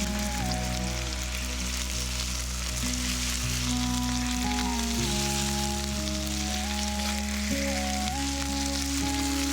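Meat sizzling steadily in a frying pan, with background music playing a slow melody and bass line over it.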